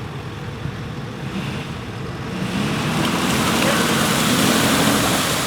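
A 4x4 truck drives through a muddy water pit. The engine runs low under a rushing splash of water and mud, which swells from about two seconds in.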